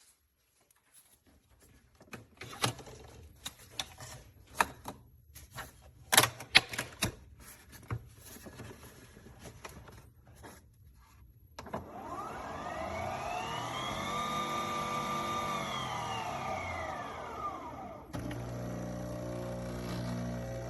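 Clicks and knocks of a Nespresso Vertuo Pop+ coffee machine being handled, then about six seconds of motor whine that rises in pitch and falls back, typical of a Vertuo capsule spinning up and down as it brews. A steady droning tone takes over near the end.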